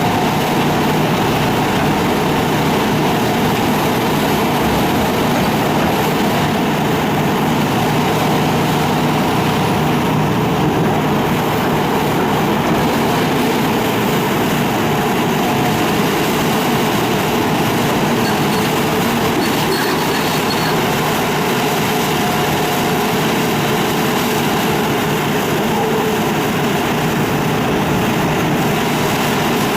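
Hitachi excavator's diesel engine running steadily, a continuous machine drone with no distinct strikes.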